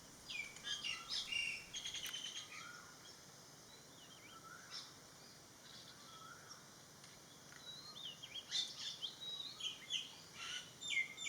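Small garden birds chirping and twittering: a busy run of short, high calls at the start, a sparser middle, then busier calling again from about eight seconds in.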